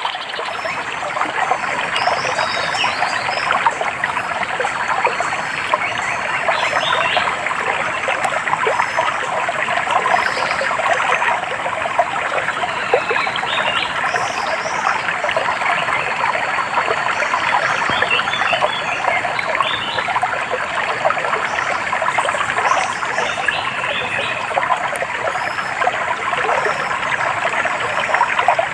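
Stream trickling and babbling steadily, with short high bird chirps now and then.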